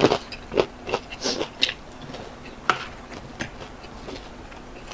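Close-up chewing of crisp deep-fried fish pieces, bones and all: a run of short, sharp crunches, quick at first and then only one now and then.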